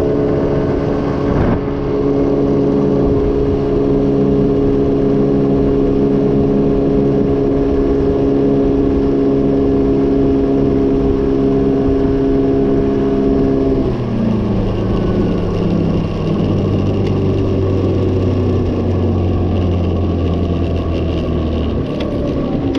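GY6 50cc four-stroke single-cylinder scooter engine running at a steady pitch on a test ride. About two-thirds of the way through it drops to a lower, steady note as the scooter slows.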